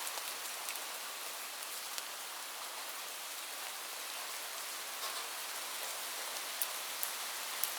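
Steady rain: a continuous high hiss of falling rain, with scattered sharper drops ticking on a surface.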